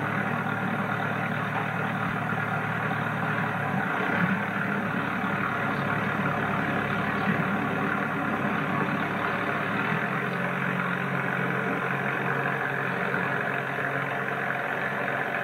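Tractor engine running steadily while driving a snowblower, with a change in the low engine note about ten seconds in.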